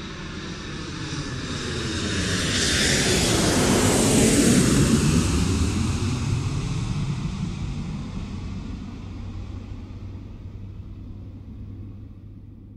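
An aircraft passing overhead: it swells to its loudest about four to five seconds in, then slowly fades away.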